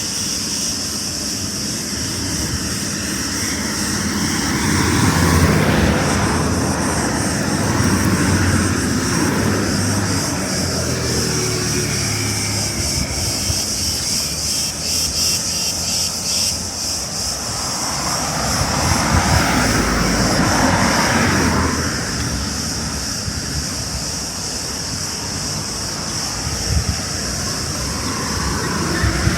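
Steady high cicada chorus, with a passing engine swelling up and dying away twice, about five seconds in and again about twenty seconds in.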